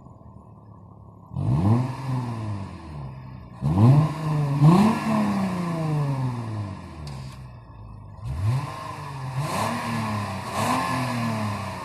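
Lexus IS 250's V6 with an adjustable exhaust, idling and then revved in quick blips: once about a second in, twice around four seconds in, and several times in the second half, each rev rising and falling in pitch before dropping back to idle.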